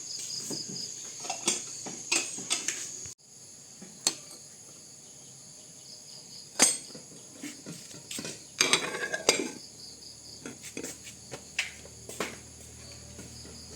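Steady insect chorus with a high, even buzz, over scattered sharp clicks and knocks, including a short flurry of them about nine seconds in.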